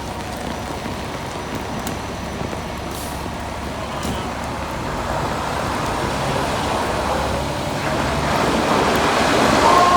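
Street traffic noise with a heavy vehicle coming closer, growing steadily louder over the second half. Right near the end a fire truck's siren starts up, two steady tones that slowly fall in pitch.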